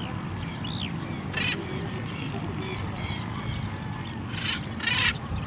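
Parrots calling: repeated short chirps with a few harsh screeches, the loudest near the end, over a steady low rumble.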